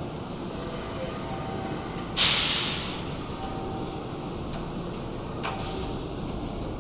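Kintetsu commuter train standing at the platform, venting compressed air from its brakes: a sudden loud hiss about two seconds in that fades out within a second, then a shorter, fainter hiss near the end, over a steady low rumble of the train.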